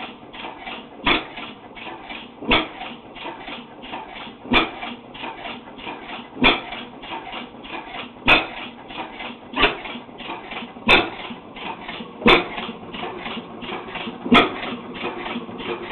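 1912 ARACO 4 hp hot-tube flywheel engine running on propane, hit-and-miss: a loud firing stroke every second and a half or two, with faint quick ticking in between as the flywheels coast. The engine fires only when its speed drops, so the bangs come at uneven spacing.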